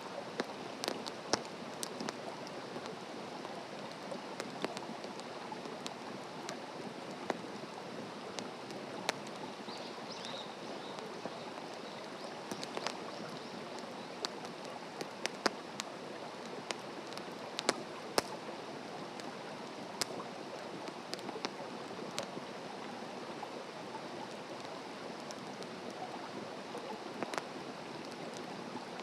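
Wood campfire burning, with sharp, irregular crackles and pops over a steady rushing hiss.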